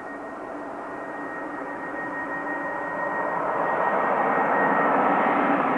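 Airbus A350-900's Rolls-Royce Trent XWB jet engines running on arrival, a steady engine noise that grows louder about halfway through, with a thin, steady high whine.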